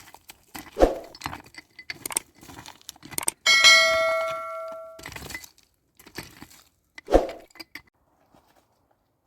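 Metal cooking gear being handled, clinking and knocking. About three and a half seconds in, one piece is struck and rings with a clear bell-like tone that dies away over a second and a half. Two duller thuds come near the start and about seven seconds in.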